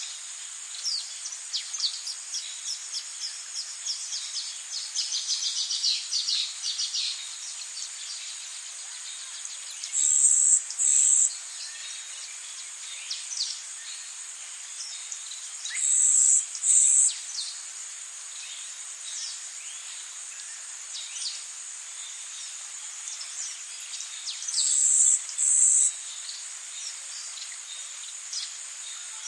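Tropical forest ambience: a steady high insect drone of crickets, with many quick bird chirps over the first several seconds. Three times, evenly spread, a loud, high two-part call rises above the drone.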